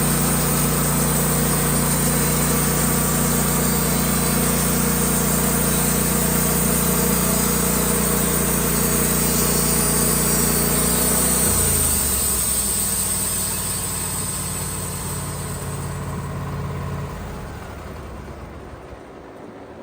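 Sawmill engine running steadily, then dropping in speed about halfway through and winding down to a stop.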